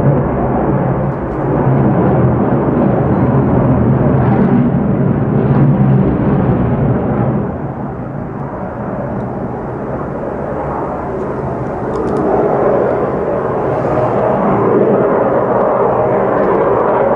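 Jet noise from an F-35A Lightning II's single F135 afterburning turbofan: a loud, steady rumble that eases slightly about halfway through, then builds again.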